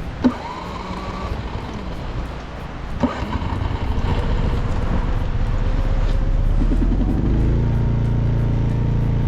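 A sharp click, then a door-like thump about three seconds in, then a car engine cranks briefly about seven seconds in, starts, and runs steadily.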